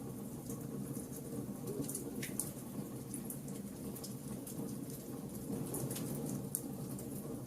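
Wood fire burning with a steady low rumble of flames and frequent sharp, irregular crackles and pops from the burning wood.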